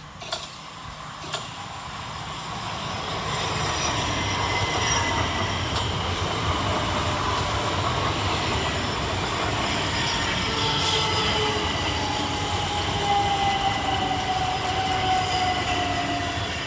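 Two coupled Class 377 Electrostar electric multiple units approaching and running through the station, their sound building over the first few seconds and then holding steady. A whine falls slowly in pitch through the second half.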